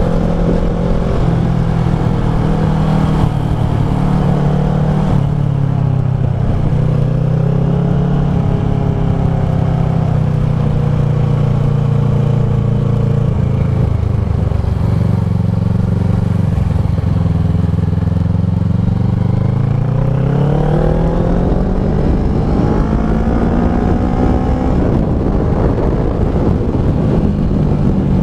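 Kawasaki ER-6f parallel-twin engine running through a Leo Vince SBK slip-on exhaust. The revs hold steady, sag lower a little past the middle, climb in a rising note about two-thirds of the way through, and then drop back near the end.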